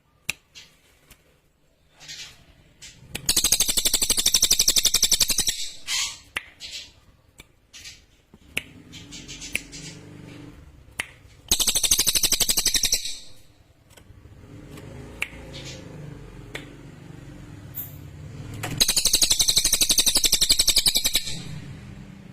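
A cililin songbird singing in three bouts of very fast, high, sharp trilling, each lasting two or three seconds, with a few short chirps in between.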